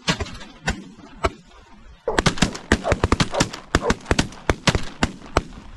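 A rapid string of shotgun blasts from several hunters firing together, starting about two seconds in, over the calling of a flock of snow and Ross's geese.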